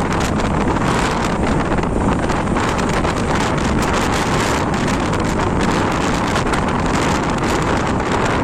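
Airliner cabin noise: a loud, steady rush of engines and airflow with frequent small crackles, as the plane comes in to land in typhoon winds.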